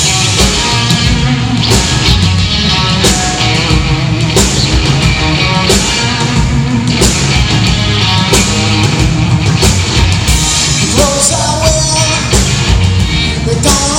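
Live rock band playing loud between sung lines, with a steady drum beat under the full band.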